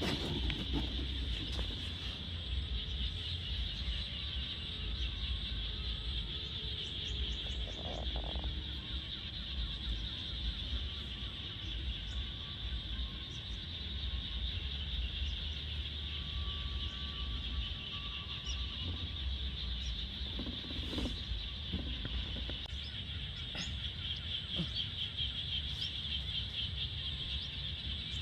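Outdoor ambience: a steady high-pitched drone of insects, over a low rumble.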